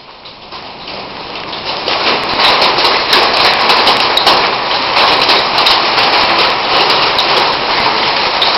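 Heavy rain pouring down in a storm, a dense steady hiss with many scattered sharp ticks of drops striking. It swells over the first two seconds, then stays steady.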